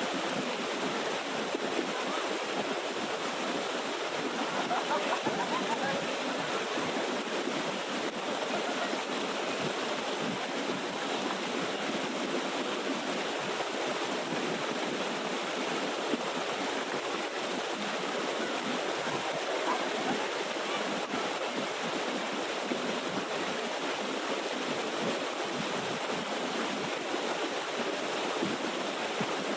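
Water pouring over a small waterfall and running on down the stream, a steady, unbroken rush.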